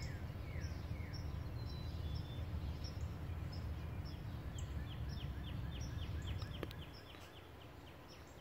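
Several songbirds singing: repeated down-slurred whistles early on, a fast run of quick falling notes in the middle, and steady high chips throughout. A low rumble underneath eases off near the end, and there is a single click shortly before it does.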